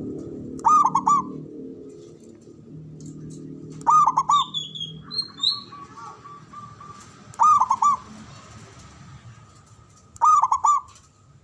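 Male zebra dove (perkutut) singing its staccato cooing song: a short phrase of about three quick notes, repeated four times at intervals of roughly three seconds. A smaller bird's high, falling chirps come in about four seconds in.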